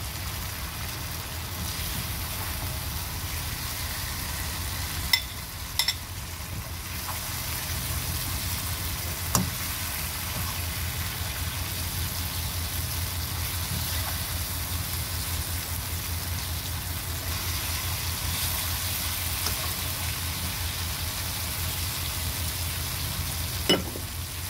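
Fried potato and eggplant sizzling in a hot wok, a steady hiss, as they are scooped out with a metal skimmer. A few sharp clinks of the skimmer against the pan.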